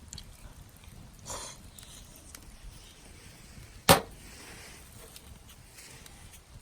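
Campfire with faint scattered crackles and one sharp, loud pop of burning firewood about four seconds in; a softer rustle about a second in.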